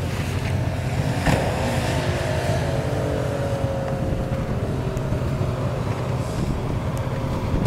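Jeep Cherokee XJ engine running under load as it climbs a steep hill, over a steady low rumble. About a second in there is a sharp knock, and the engine note then falls slowly over the next few seconds.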